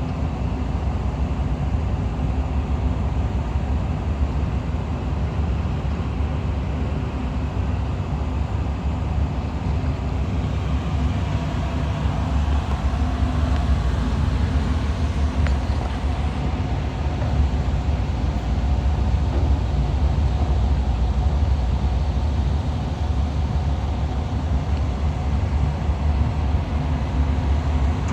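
Large car ferry's diesel engines and propulsion running as the ship gets under way: a steady deep rumble with a faint hum above it, swelling a little partway through.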